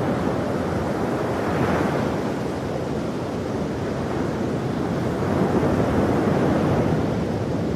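Ocean waves breaking and washing on a shore, a continuous surf rush that swells gently a couple of times.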